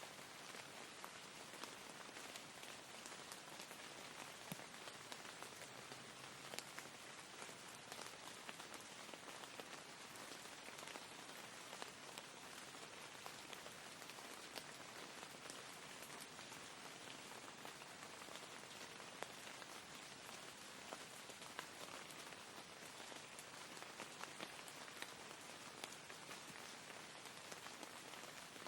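Faint, steady rain: an even hiss of rainfall with scattered individual drops ticking through it.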